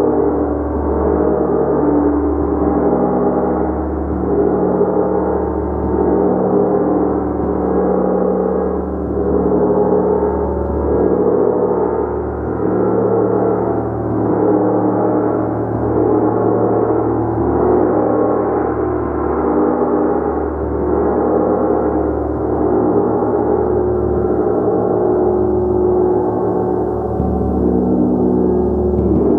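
A gong played continuously in a sustained, dense shimmering wash of overlapping tones that swells in an even pulse about once a second.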